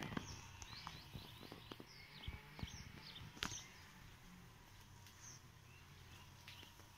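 Small birds chirping faintly, a quick run of short high notes that falls off after about three and a half seconds, over scattered clicks and taps as someone walks along a paving-slab path.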